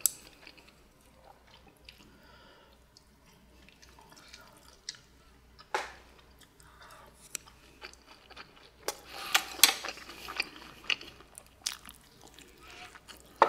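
Close-miked chewing and biting of hamburger steak and rice, with soft wet mouth noises. Sharp clicks of utensils against dishes now and then, several close together about nine to ten seconds in.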